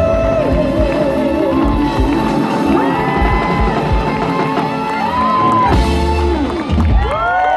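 Live Latin band playing with a strong bass beat, a singer holding a wavering note at the start. Near the end the band drops out and the crowd whoops and cheers.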